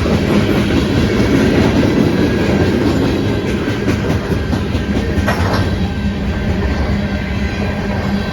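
Freight train rolling past at the crossing: a steady, loud rumble of cars with the clickety-clack of wheels over the rail joints.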